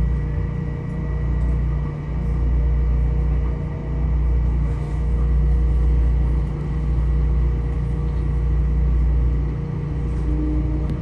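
Metro-North M7A electric multiple-unit car running between stations, heard from inside: a steady low rumble from the wheels and running gear that swells and eases every couple of seconds, with a faint steady whine over it.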